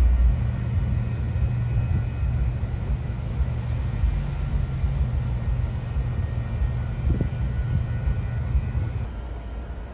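A train passing close by, heard as a loud, steady low sound from engine and wheels that starts suddenly and eases a little near the end.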